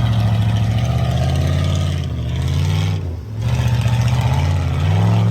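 Mud truck's engine running hard just after being restarted, its pitch wavering; about three seconds in the revs drop briefly, then climb again near the end.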